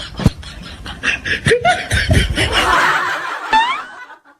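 Laughter in short bursts, with a sharp click just after the start and a quick rising tone near the end.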